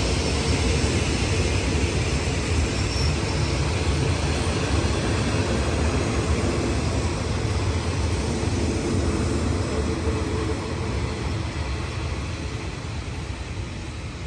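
Thai passenger train coaches rolling along the track at a station, a steady rumble of wheels on rails that fades near the end as the last coach pulls away.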